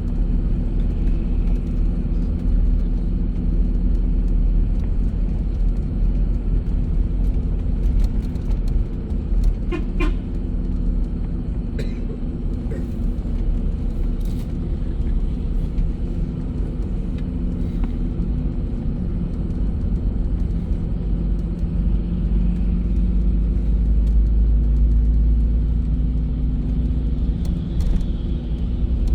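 Bus engine and road noise, a steady low rumble, with a few short knocks and a brief higher tone about a third of the way in.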